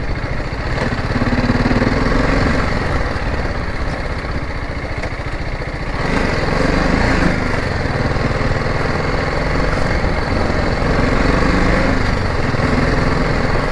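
Motorcycle engine running under way at low speed, the revs rising and falling a few times.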